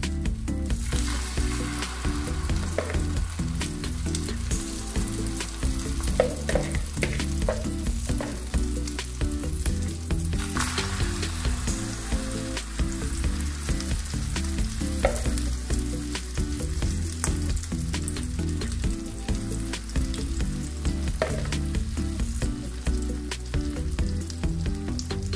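Patties of chopped-vegetable mixture frying steadily in hot oil in a nonstick pan, crackling and sizzling, with light scrapes and taps of a metal spoon as more mixture is added and spread.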